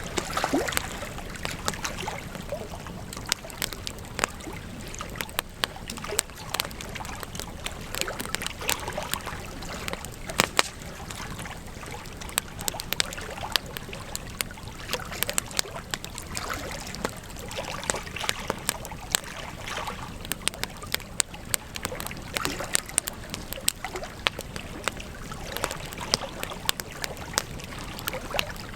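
Campfire burning, with frequent sharp crackles and pops at irregular intervals over a steady low rushing noise.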